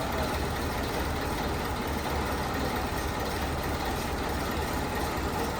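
A 6-ton truck's engine idling steadily.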